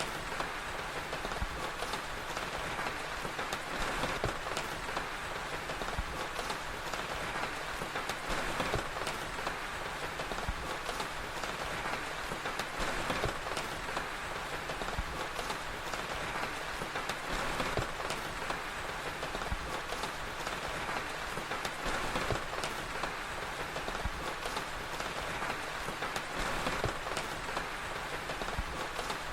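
Steady rain falling, with frequent small crackles and pops from a wood fire scattered throughout.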